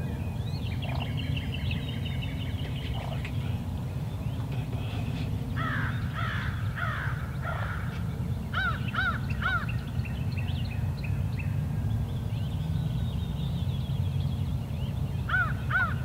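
Outdoor bird calls over a steady low rumble: a few falling calls about six seconds in, then short arched calls in a group of three and, near the end, a pair, with fainter high songbird notes in between.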